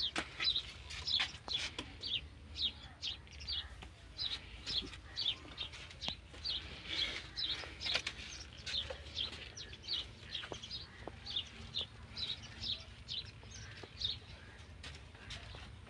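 Small birds chirping: short, high, repeated chirps, about two a second, with a few sharp clicks in between.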